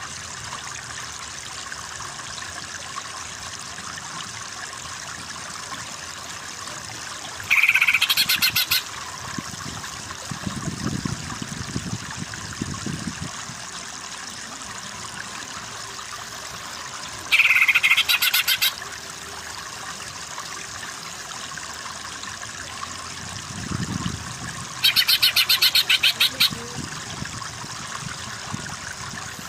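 Three loud, short bird calls, each a rapid rattling string of notes, spaced several seconds apart over a steady hiss of running water.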